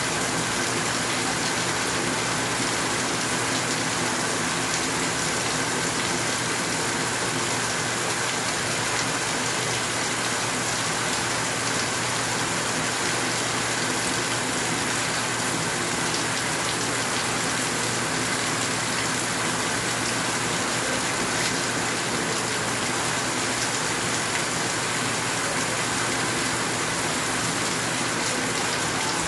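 Rain falling steadily, a dense even hiss that neither builds nor fades.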